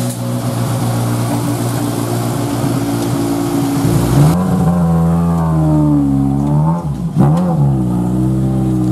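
Škoda Fabia R5 rally car's turbocharged four-cylinder engine running at a steady idle, then, after a sudden change about four seconds in, its revs rising and falling as the car moves off slowly, with a quick dip and pick-up about seven seconds in.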